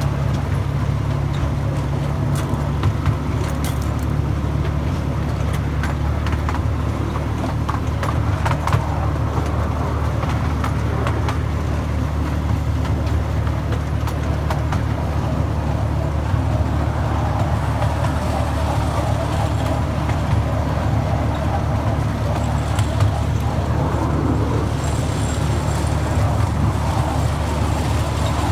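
Miniature railway train running with a steady low rumble and a few sharp clicks.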